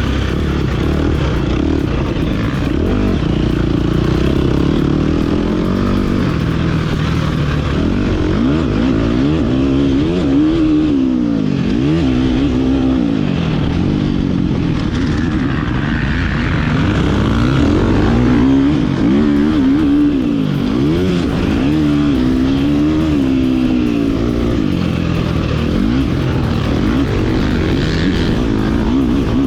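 Motocross dirt bike engine revving up and falling back again and again as it is ridden hard around the track, the pitch rising and dropping every second or two.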